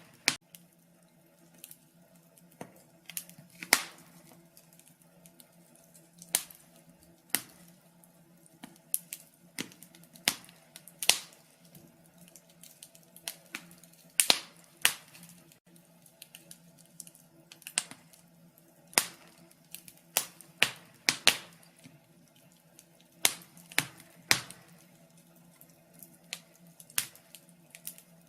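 Wood fire crackling in a fireplace: irregular sharp pops and snaps, a few louder than the rest, over a faint steady low hum.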